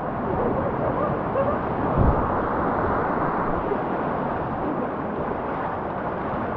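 Steady rush of river water around a raft mixed with wind noise on the microphone. A short low thump comes about two seconds in.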